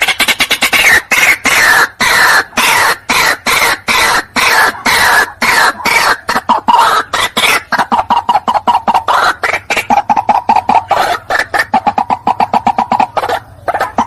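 White-breasted waterhen calling: a loud, fast run of harsh repeated notes, several a second. About halfway through, the higher, falling notes give way to quicker notes on a steadier, lower pitch.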